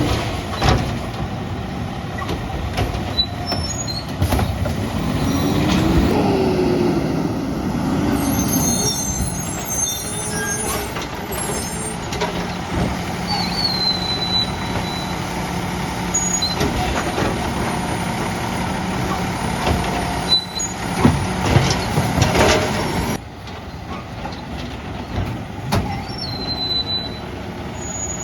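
Peterbilt garbage truck with a Labrie Automizer side-loading arm at work: the diesel engine revs up and settles while driving the hydraulics, with rattling and clattering partway through as a cart is dumped, knocks near the end, and air-brake hisses.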